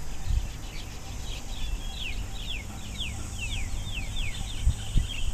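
Birds calling in a steady run of short, quickly falling chirps, about two or three a second, over a low rumble.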